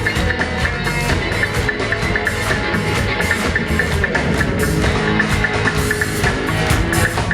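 Live roots reggae band playing, with drum kit, bass and guitar in a steady beat.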